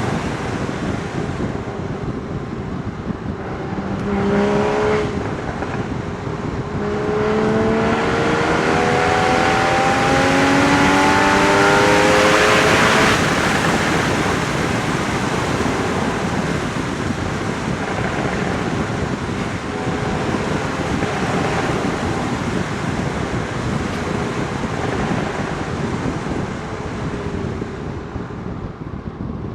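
Porsche Boxster Spyder 981's flat-six engine and exhaust under way. Its note climbs in pitch as the car accelerates over several seconds and is loudest about a third of the way in. It then settles into steady cruising, where wind and road noise cover the engine.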